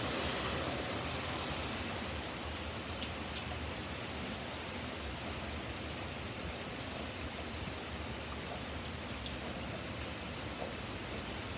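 Steady rain falling on a wet paved driveway and yard, an even hiss with a few distinct drip ticks. At the start a car passes on the wet street, its tyre hiss fading within the first second or two.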